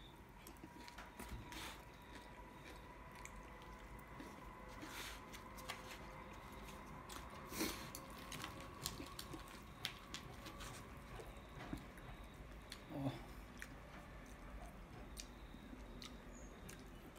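Faint chewing with scattered small clicks and taps, as a metal fork and knife cut through chicken parma in a foam takeaway box.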